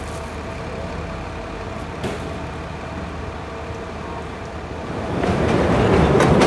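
Chicago 'L' train approaching the platform: a rumble that swells and grows steadily louder from about five seconds in, over a steady background hum.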